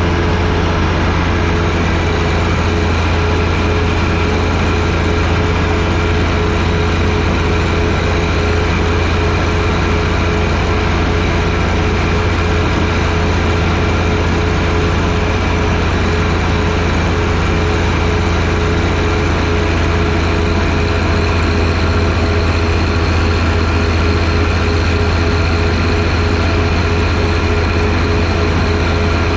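John Deere 1025R sub-compact tractor's three-cylinder diesel engine running at a steady speed, a constant low drone with no change in pitch.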